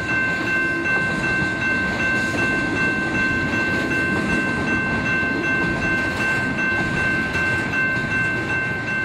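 A train rolling past with a steady rumble. Several high, steady tones ring over it without changing pitch throughout.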